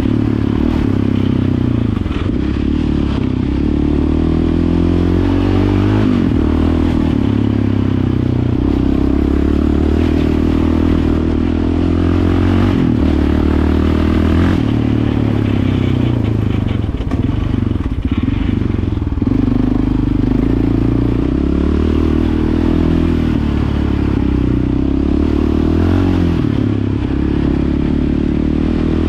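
Yamaha Raptor 700 ATV's single-cylinder four-stroke engine running through a Yoshimura exhaust while being ridden in, its pitch rising and falling with the throttle throughout.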